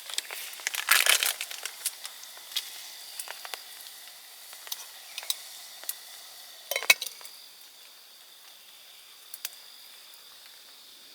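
Campfire wood crackling and popping in irregular snaps, with a denser burst of crackles about a second in and another about seven seconds in. A faint steady insect trill sounds high in the background.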